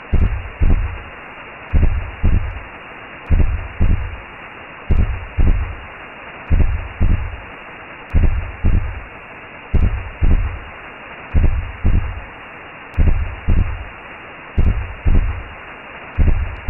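Recreated in-the-womb sound: a slow heartbeat of paired low thumps, lub-dub, repeating about every 1.6 seconds over a steady hiss.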